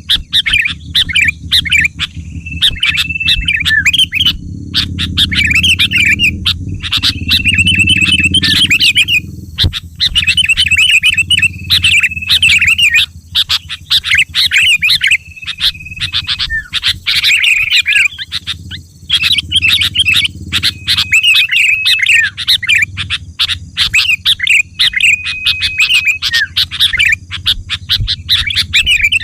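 Sooty-headed bulbul (kutilang) song: repeated bursts of quick chattering chirps broken by short held whistled notes, over a low background rumble.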